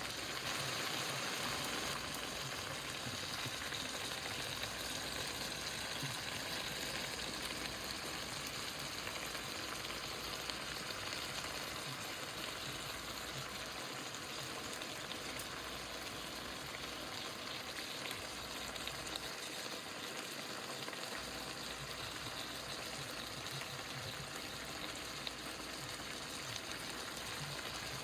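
Chicken stir-fry sizzling steadily in a hot pan, an even hiss with faint crackles.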